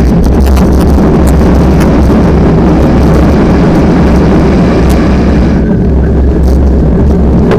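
Strong wind buffeting the microphone: a loud, steady rumble and rush that eases in its higher part for a couple of seconds near the end.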